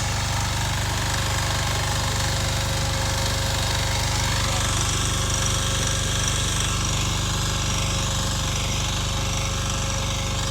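Two-wheel walking tractor's engine running steadily with a fast, even chugging while it drives a rear-tine tiller.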